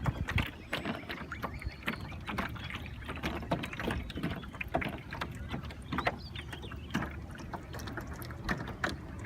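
Small boat on a river: frequent irregular clicks, knocks and light splashes from handling gear in the boat, over a steady low rumble.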